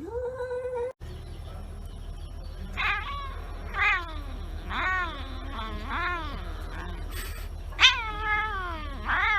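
Domestic cat meowing over and over: about six drawn-out meows a second or so apart, each rising then falling in pitch, the loudest near the end. A single held meow comes first, cut off after about a second.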